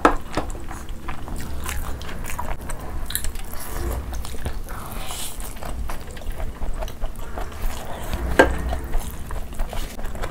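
Close-miked chewing and wet mouth smacks of two people eating curry-soaked rice and mutton by hand, a steady run of small clicks with sharper smacks at the very start and about eight seconds in.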